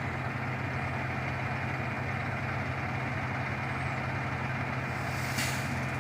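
Heavy delivery truck's engine idling steadily, with a brief hiss about five seconds in.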